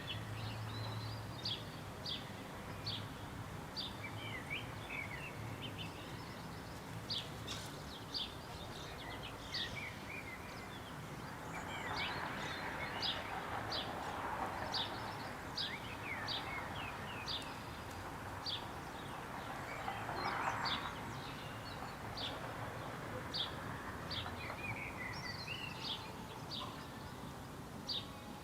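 Outdoor birdsong: a small bird repeats a short, high, thin note about once a second over a steady background hiss. A broader, noisier sound swells up twice in the middle.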